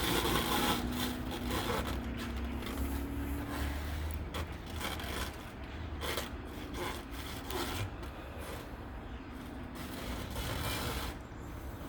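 Plastic wrap rustling and rubbing in irregular strokes, with a low steady hum underneath during the first few seconds.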